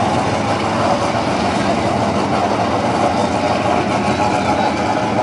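Drag-racing Mustang engines idling steadily, a deep, even rumble with no revving or launch.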